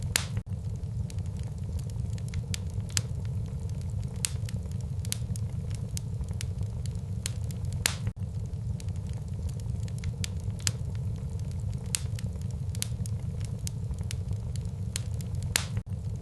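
Wood fire burning in a fireplace: a steady low roar of flames with frequent sharp, irregular crackles and pops, a few of them louder.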